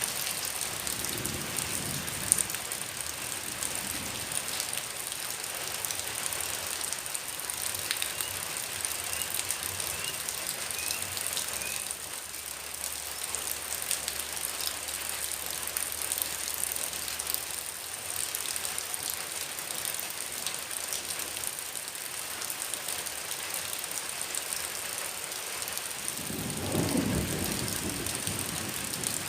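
Heavy rain falling steadily: a dense hiss and patter of drops. About 26 seconds in, a low rumble swells for a couple of seconds.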